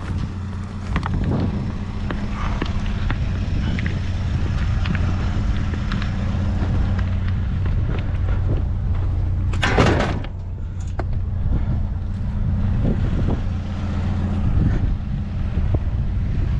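Motor vehicle engine running with a steady low hum, with faint scattered knocks and a short loud rush of noise about ten seconds in.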